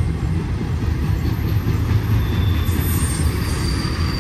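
Double-stack intermodal well cars of a freight train rolling past: a steady rumble of wheels on the rails. A faint high squeal from the wheels comes in about two seconds in.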